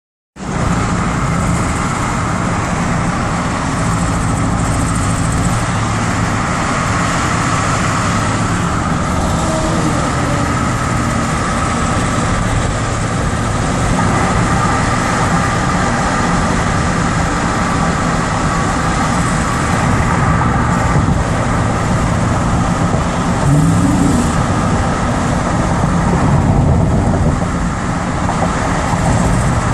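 2008 Jeep Grand Cherokee engine running steadily, with the clicking, exhaust-type noise the owner is questioning.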